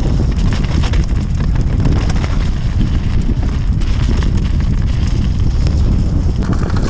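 Wind buffeting the microphone with the rattle and knocks of a mountain bike riding down a rough, wet trail. The knocks come many times a second.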